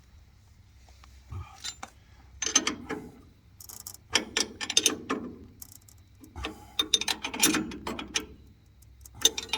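Ratchet wrench clicking in four short bursts of rapid strokes, with quiet gaps between, as fittings on the pump plumbing are worked.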